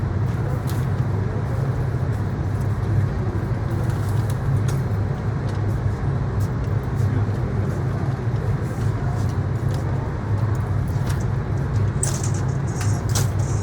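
A steady low droning hum over constant noise, with a few faint sharp clicks.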